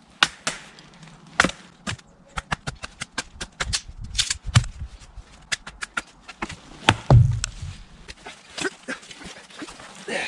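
Wooden baton striking the spine of a small 440C stainless fixed-blade knife to drive it through wood: scattered sharp knocks, a quick run of lighter taps, then the heaviest blows about seven seconds in.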